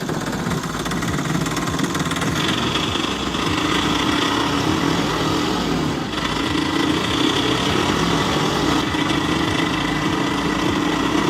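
An engine running steadily, like an idling vehicle or small motor, cut in abruptly and stopping abruptly.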